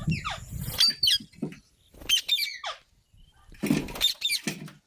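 Pet green parrot calling in a few bursts of short, high chirps and squawks with quiet gaps between them.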